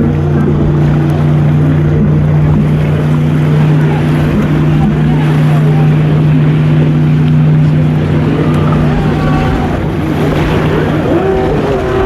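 Personal watercraft (jet ski) engines running at a steady pitch, the note weakening and shifting pitch in the last few seconds.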